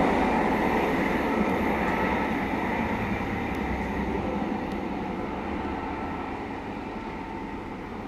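An InterCity 125 (HST) with Class 43 diesel power cars pulling away, its engine and wheels-on-rail rumble fading steadily as the train recedes.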